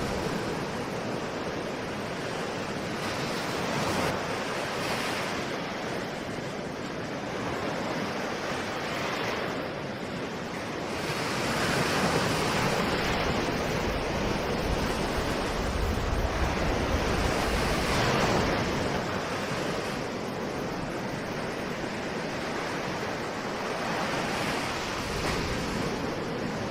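Ocean waves breaking and washing in continuously, swelling and easing every few seconds, loudest about halfway through.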